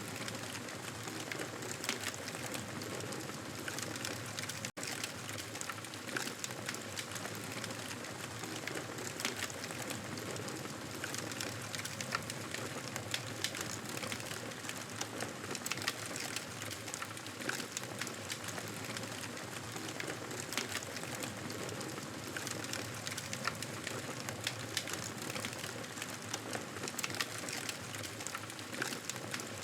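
Wood fire crackling in a fireplace: a steady hiss with frequent irregular snaps and pops, broken by a momentary dropout about five seconds in.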